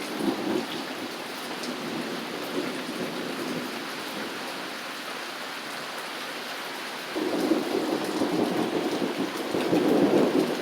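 Steady rain falling, with thunder rumbling at the start and again from about seven seconds in, growing louder near the end.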